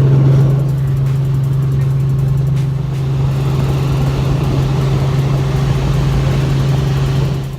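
Helicopter running, a loud steady drone with a strong low hum under a rushing noise. It cuts off abruptly near the end.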